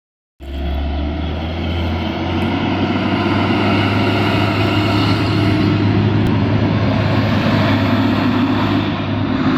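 Vehicle engine running steadily under load on an uphill climb, a loud low drone that begins abruptly just after the start and steps up slightly in pitch about two seconds in.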